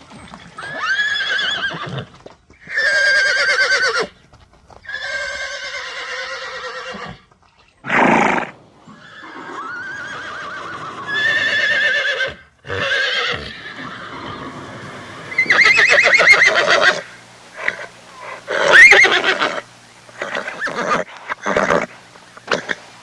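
Horses neighing and whinnying: a string of about ten separate calls, each one to two seconds long, with a shaking, quavering pitch.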